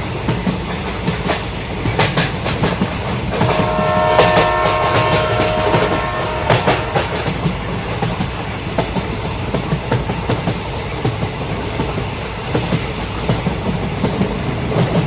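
Model train running along a diorama track with a steady rattling clatter. A horn sounds for about three seconds, starting a few seconds in.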